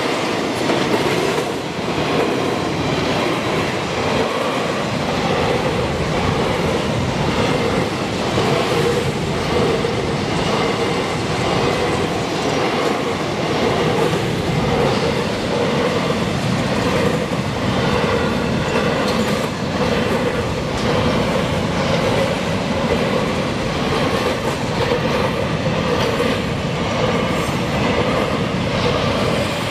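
Freight train of hopper wagons rolling steadily past a level crossing: a continuous noise of steel wheels on the rails, with recurring short clicks.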